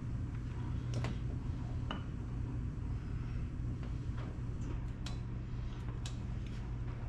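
A few light metallic clicks and taps, spaced about a second apart, as small carburetor parts are handled and fitted together, over a steady low hum.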